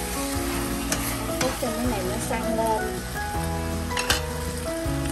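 Marinated beef and pork offal (honeycomb tripe and intestines) sizzling in hot oil in a stainless steel pot while being stirred with a spoon, with a few sharp knocks of the spoon against the pot, one of them about four seconds in.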